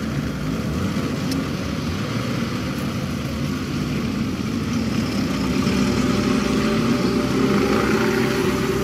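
Car engine running steadily, growing a little louder with a steady hum from about halfway through.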